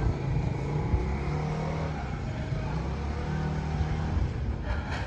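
A car's engine running steadily with road noise, a low even hum.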